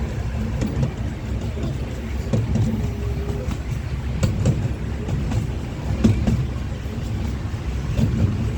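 Ride train running, heard from aboard a car: a steady low rumble with scattered knocks and clicks from the wheels and couplings.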